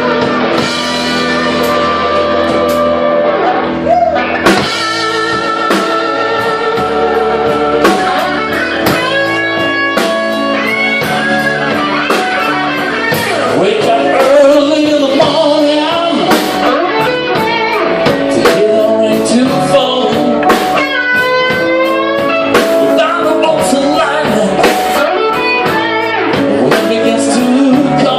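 A blues band playing live, led by guitar, with notes bent up and down in the lead line.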